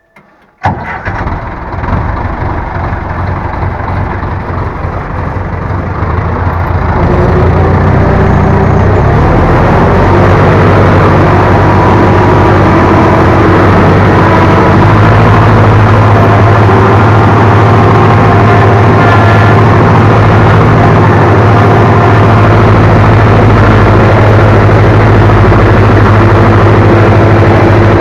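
Ursus C-360 tractor's four-cylinder diesel engine running. It starts suddenly about half a second in, grows louder over the first several seconds, then runs steadily at a constant speed.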